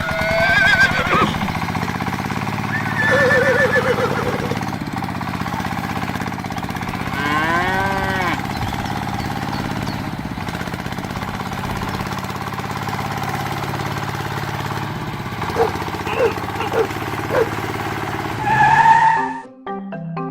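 A small engine running steadily. Over it come a few short calls that rise and fall in pitch, and later a few sharp knocks.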